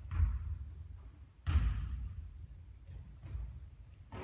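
Basketball bouncing on a court: two heavy thuds about a second and a half apart, followed by a couple of fainter bounces.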